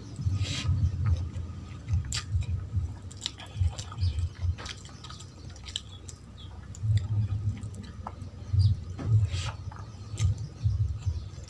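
Close-miked chewing of a handful of rice and curry, with irregular low thuds and wet mouth smacks, quieter about halfway through. Fingers mixing the rice on a steel plate.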